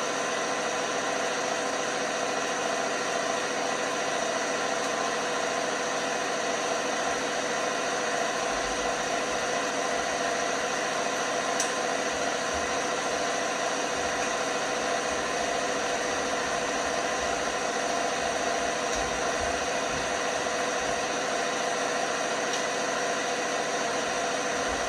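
LG washing machine running with a steady mechanical hum and whir. From about eight seconds in, irregular low thuds join it.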